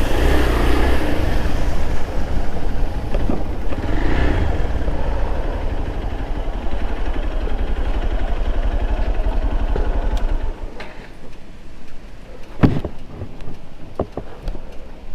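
Motorcycle engine running as the bike rides, with wind rushing over the microphone; about ten seconds in the engine sound drops away, followed by a few sharp knocks and clicks, the loudest near the end.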